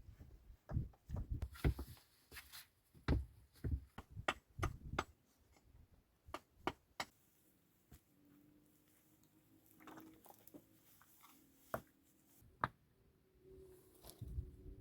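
Irregular knocks, thumps and clicks, as of things being handled. They come thick for the first six seconds, then thin out to a few sharp snaps over a faint steady hum.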